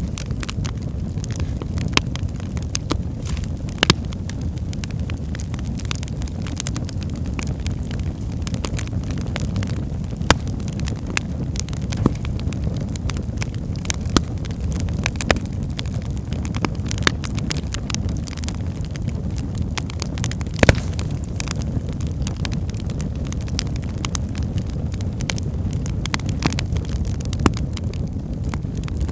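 Wood fire in a fireplace burning with a steady low rumble and irregular sharp crackles and pops from the logs, one louder pop about two-thirds of the way through.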